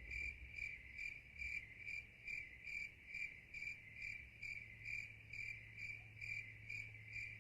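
A cricket chirping in a steady, even rhythm, about two high-pitched chirps a second, with a faint low hum beneath.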